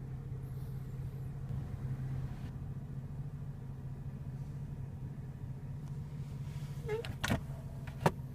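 2014 BMW 435i's turbocharged straight-six idling, a steady low hum heard inside the cabin. Two sharp clicks come near the end.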